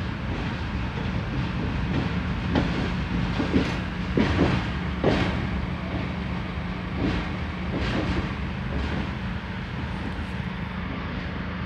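Passenger train running through a station, heard from the open doorway of a coach: a steady rumble with wheels clacking over rail joints about once a second.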